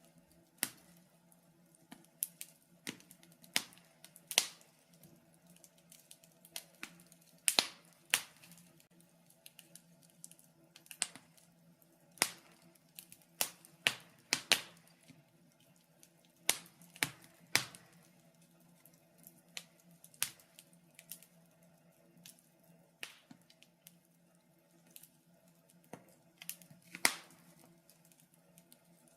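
Wood fire in a fireplace crackling: irregular sharp pops and snaps, a few a second and uneven in strength, over a faint steady low hum.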